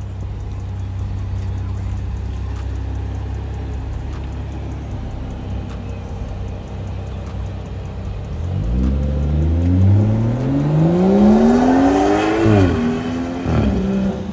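Car engine idling with a steady low rumble, then, about halfway through, the car pulls away and the engine revs up with rising pitch, dropping sharply twice as it shifts up.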